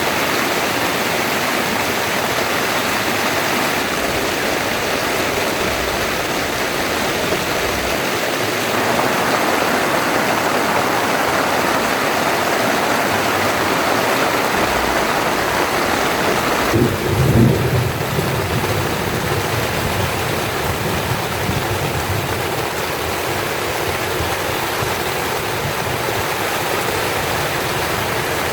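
Heavy rain falling steadily. About two-thirds of the way through there is a brief low rumble that then fades.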